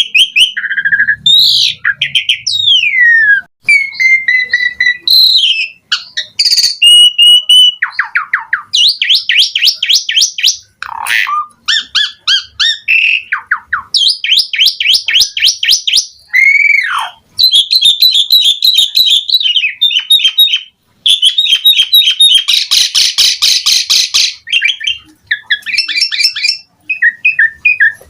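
Asian pied myna (jalak suren) in full song: a fast, varied string of gliding whistles, rising and falling notes and rapid rattling trills, packed with the borrowed phrases that make a chatty, full-repertoire song.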